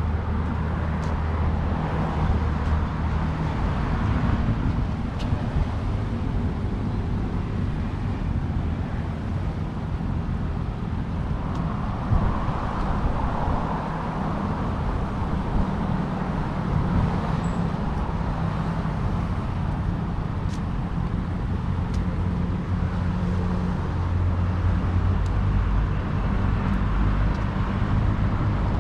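Road traffic: a steady low engine hum, with vehicles passing by twice, about two to four seconds in and again around twelve to fourteen seconds.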